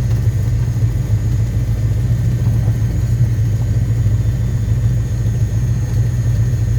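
Cessna 172RG's four-cylinder Lycoming piston engine and propeller running at a steady, unchanging drone.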